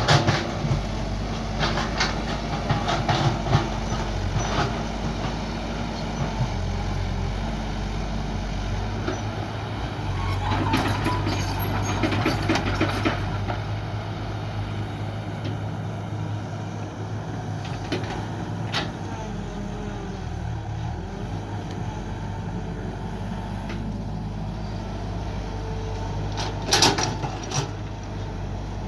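Mini excavator's diesel engine running steadily under load, its pitch shifting now and then as the hydraulics work, with scattered knocks and clanks as it digs, loudest in a pair near the end.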